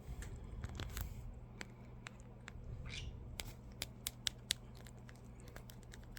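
Irregular sharp clicks and taps, with a few louder ones about four seconds in and a brief scratchy rustle near three seconds.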